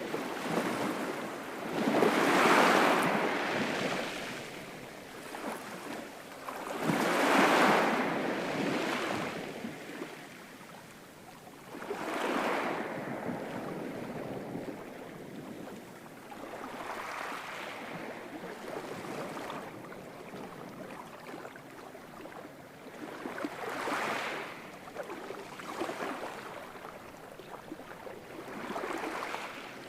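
Ocean surf: waves breaking and washing in with a slow rhythm, six swells about every five seconds, the first two the loudest.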